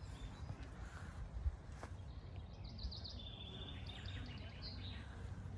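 A songbird singing: a quick run of high chirps about halfway through, then a trill and a few more notes, over a steady low rumble.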